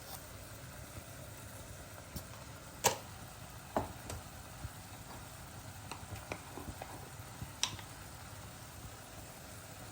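Scattered light clicks and knocks of kitchen utensils against cookware, irregular and a few seconds apart, the sharpest about three seconds in, over a faint steady background hum.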